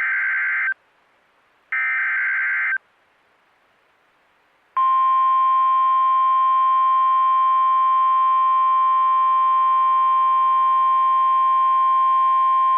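Emergency alert signals from a NOAA Weather Radio broadcast. Two short screeching SAME digital header bursts, about a second each and a second apart, are followed after a pause of about two seconds by the steady 1050 Hz Warning Alarm Tone, which starts about five seconds in. Together they signal an incoming Severe Thunderstorm Warning.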